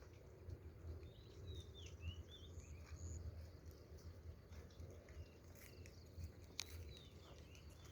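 Faint birds chirping, a few short whistled calls in the first three seconds, over a steady low rumble, with a single sharp click later on.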